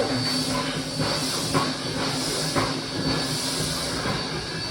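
Steam locomotive standing with steam hissing steadily, a low steady hum underneath and a couple of faint light clanks.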